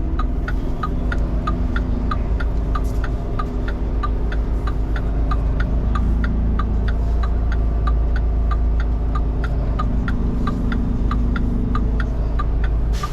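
Semi-truck diesel engine running steadily at low revs while backing in, a low throbbing hum. A light, even ticking, about three clicks a second, runs over it.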